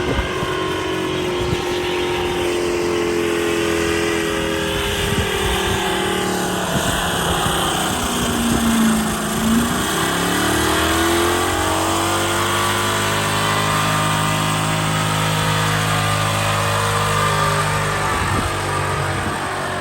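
Car engine run at high revs. Its pitch sags about halfway through, then climbs back and holds steady and high until it eases off near the end.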